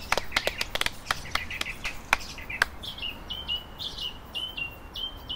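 A few people clap sparsely, the claps thinning out over the first three seconds, then a bird gives a run of short, falling chirps, about three a second.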